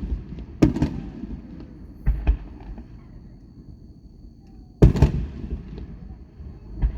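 Aerial fireworks shells bursting. The bangs come in pairs about a second in and about two seconds in, with a single loud one about five seconds in and another at the very end. Each bang trails off in a rumbling echo.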